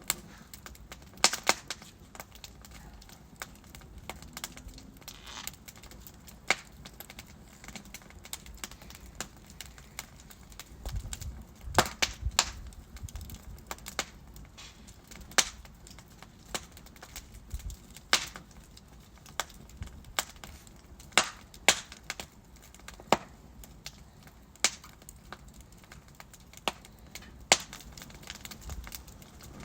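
Wood logs burning in a fireplace: irregular sharp crackles and pops, a few every second or two, over a soft low rumble of the flames.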